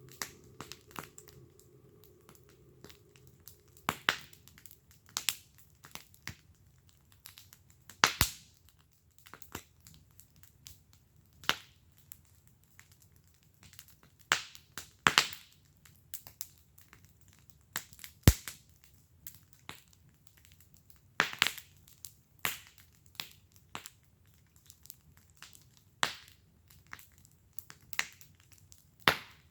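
Wood fire crackling in a fire pit: irregular sharp pops and snaps from the burning wood, a few of them loud, over a faint low rumble.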